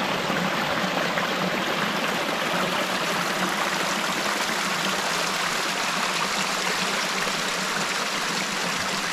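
Flowing river water, a steady rushing that sets in suddenly just before and holds even throughout.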